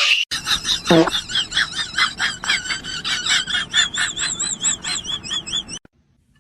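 Rapid, high-pitched animal chirping, about five calls a second, each wavering up and down in pitch, with one falling squeal about a second in; it stops abruptly near the end.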